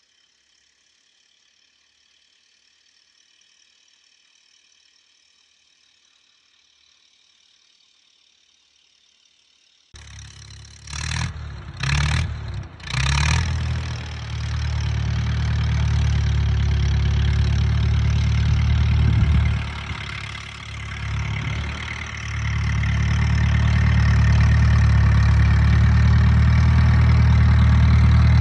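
A 1936 Case L tractor's four-cylinder engine running with a steady low rumble, cutting in abruptly after about ten seconds of faint hiss. Three brief rushes of noise come just after it cuts in, and it dips in loudness about two-thirds of the way through before running steadily and loud again.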